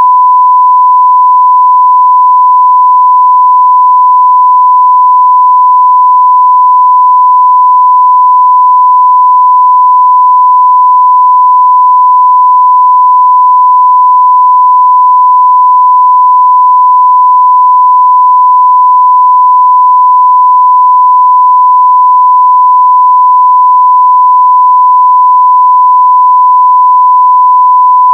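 Continuous 1 kHz sine-wave test tone at full scale (0 dB), one steady pure pitch.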